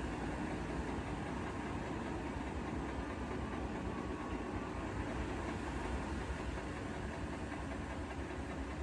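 Bosch Serie 4 front-loading washing machine running mid-wash on a 90 °C cotton programme, the drum turning the wet laundry with a steady low rumble and no spin whine.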